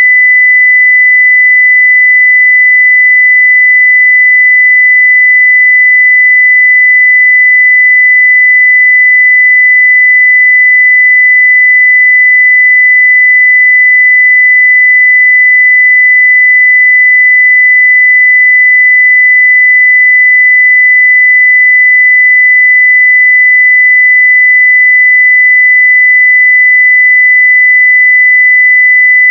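A 2 kHz sine-wave test tone at full level, a single pure steady pitch that does not change.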